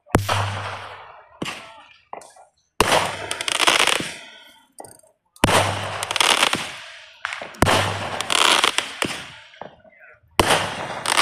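Fireworks going off: about five loud bangs a couple of seconds apart, each followed by a long fading crackle of many smaller cracks.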